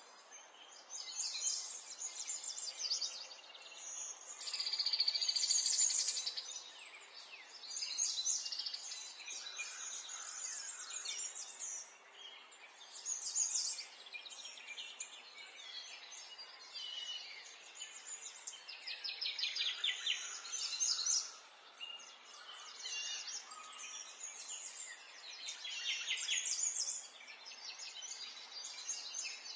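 Several songbirds singing and chirping in overlapping bursts of fast, high trills, over a faint background hiss.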